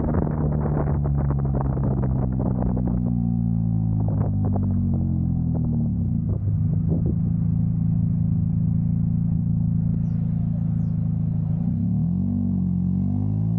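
2000 Honda Civic's D-series four-cylinder engine and exhaust under way, with some knocks in the first few seconds. The engine note eases off, holds steady for several seconds, then climbs as the car accelerates near the end.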